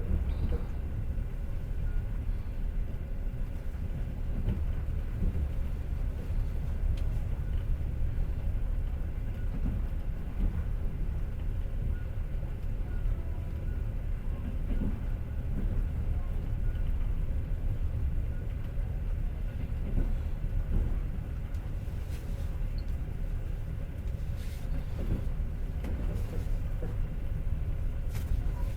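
Passenger train carriage rolling along the rails, heard from inside the car: a steady low rumble of the wheels and running gear. A few light knocks come in the last several seconds.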